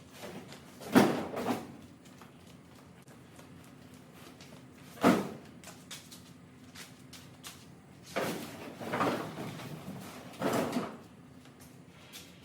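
Shop garbage being handled: a handful of sudden bangs and clatters a few seconds apart, with a longer clattering run near the end.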